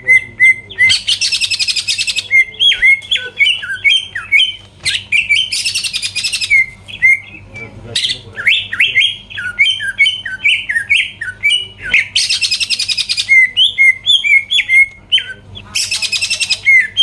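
Cucak ijo (green leafbird) singing loudly: runs of quick, sharp whistled notes that alternate every few seconds with dense, harsh, high rattling bursts.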